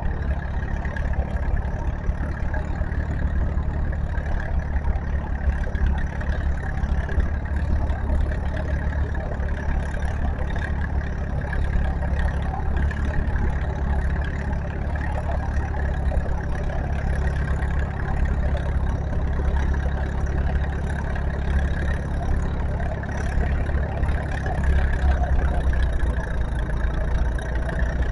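Farm tractor engine running at a steady speed, a deep, even drone with no big rise or fall in pitch.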